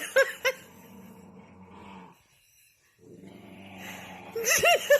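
A pet's short, high, pitched yelps in quick runs of three or four, once at the start and again near the end, with only faint background noise in between.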